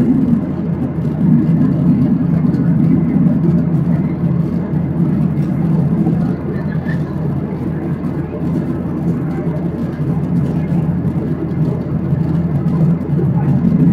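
Steady cabin roar of a Boeing 737-800's CFM56 jet engines and airflow, heard from a window seat, with a slight dip in loudness partway through.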